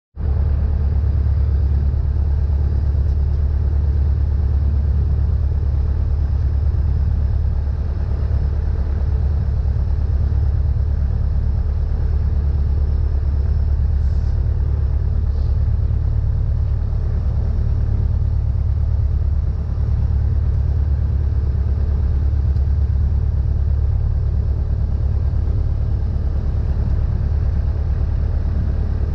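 Cessna 172N's four-cylinder Lycoming engine and propeller running at a steady setting, a loud, unchanging low drone.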